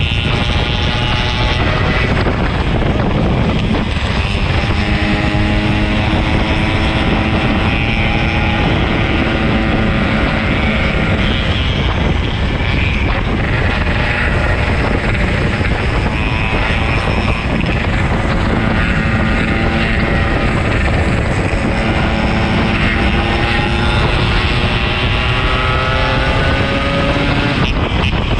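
Yamaha RX-King two-stroke single-cylinder motorcycle engine running under way, its pitch rising again and again as it accelerates through the gears, over heavy wind and road noise.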